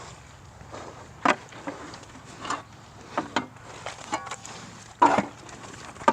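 Pigs jostling at their feed and water in a pen: about half a dozen scattered knocks and clatters, the loudest about five seconds in, with a short squeal or grunt about four seconds in.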